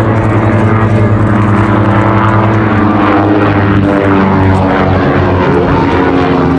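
Cessna O-2 Skymaster push-pull twin piston engines and propellers droning loudly in flight overhead, the pitch shifting slightly partway through as the aircraft manoeuvre.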